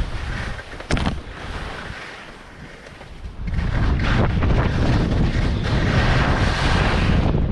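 Wind buffeting the microphone during a ski run, a rumbling rush of noise with one sharp knock about a second in; the rumble grows much louder about three and a half seconds in and stays loud.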